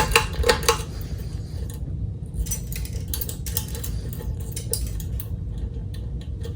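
Kichler Canfield ceiling fan switched on with a few sharp pull-chain switch clicks, then running on low speed with a steady low hum and scattered light metallic clinks and ticks.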